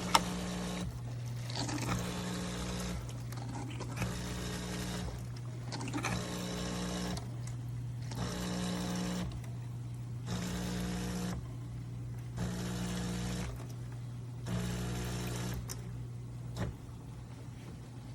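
De'Longhi Dinamica Plus espresso machine running over a steady low hum, its pump buzzing in regular pulses about a second long, roughly every two seconds, each starting with a click.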